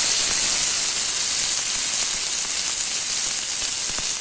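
Freshly added chopped onion sizzling in hot oil in a wok, a steady frying hiss, with a couple of faint clicks near the end.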